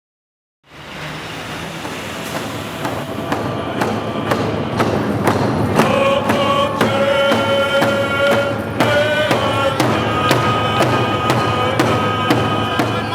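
Drums beaten in a steady beat of about two strokes a second, with a group of voices singing a traditional song that comes in strongly about six seconds in.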